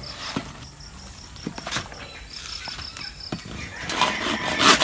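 Hand saw cutting a wooden board with uneven, hesitant strokes: scattered knocks and scrapes at first, then a louder stretch of rasping sawing near the end.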